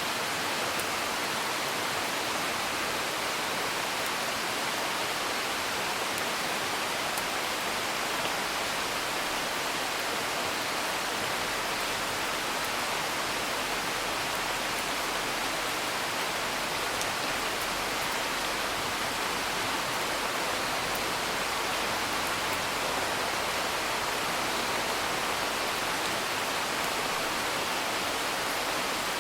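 Steady, even hiss of rain falling, with a faint scattering of small ticks.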